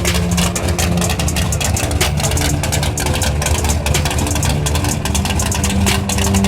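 Car engine idling steadily and loudly.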